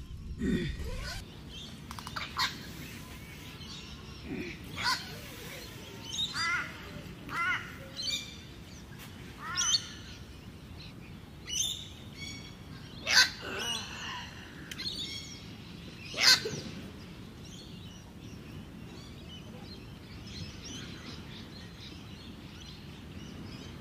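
Birds calling: a run of short chirping calls, one every second or so, the loudest two about 13 and 16 seconds in, fading to a faint background over the last few seconds.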